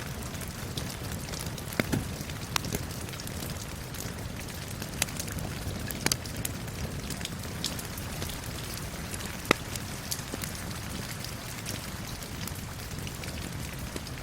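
Steady rain falling, with a crackling wood fire mixed in that gives scattered sharp pops and snaps, the loudest about two, six and nine seconds in.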